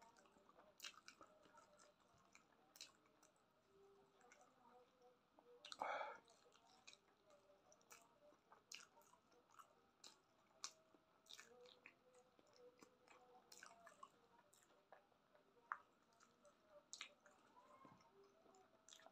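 Quiet, close-up eating sounds of a person chewing rice and chicken eaten by hand: sticky chewing with scattered wet mouth clicks and lip smacks. There is one louder wet mouth sound about six seconds in.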